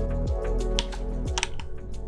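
Computer keyboard clicks at an irregular pace, over background music with a deep bass note that slides down about once a second.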